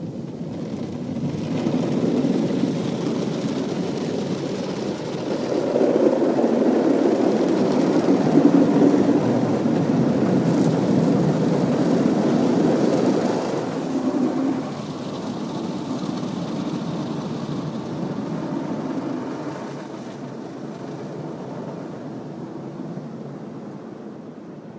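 An automatic car wash working over a car: a steady rush of noise that builds, is loudest in the middle and fades toward the end.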